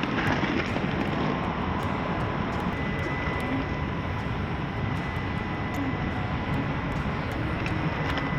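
Traxxas TRX-4M crawler's small electric motor and gears whining at a steady pitch while it drives, over a rough, steady rush of noise.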